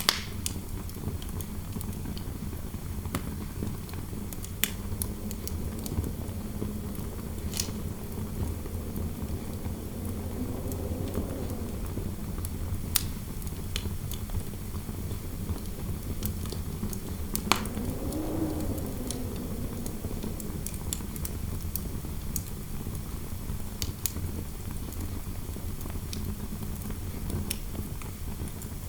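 Fireplace fire crackling, with a sharp pop every few seconds over a steady low rumble. Indoor wind howling softly behind it, swelling up and fading twice, around the middle and about two-thirds through.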